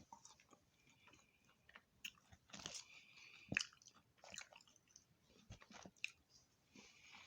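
A person chewing crunchy fried food close to the microphone: faint, irregular wet crunches and clicks, the loudest about three and a half seconds in.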